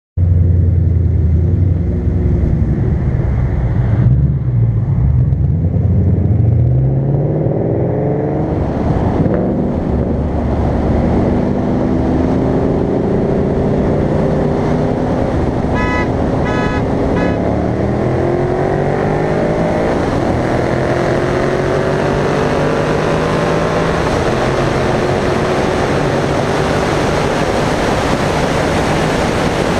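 Two Ford Mustang GTs' 5.0 V8 engines at full throttle in a rolling-start race from 40 mph. Engine pitch climbs in several sweeps, dropping at each upshift, then settles into steady cruising with road and wind noise. A rapid run of short beeps sounds about sixteen seconds in.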